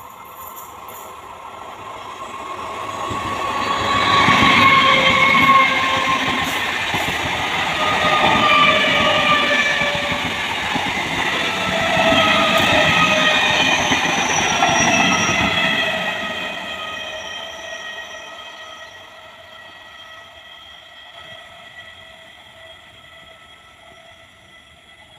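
Electric multiple unit (EMU) suburban local train passing close at speed: its wheels rumble on the rails, rising as it approaches, loudest as the coaches go by, then fading as it recedes. A high whine of several steady tones sits over the rumble and lingers as the train goes away.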